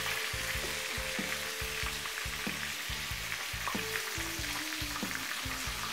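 Flour-coated chicken breasts shallow-frying in a little oil in a frying pan: a steady sizzle.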